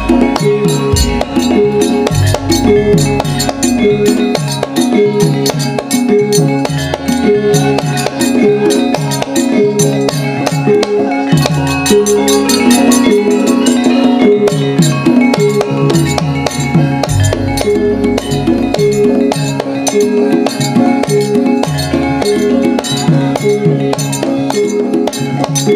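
Javanese gamelan ensemble playing dance accompaniment: struck metallophones ring out a busy, steady rhythm over drums, with deep low notes sounding in stretches of a few seconds.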